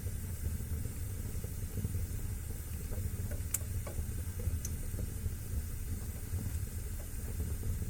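Fire burning in a fireplace: a steady low rush of flame with a few sharp crackling pops near the middle.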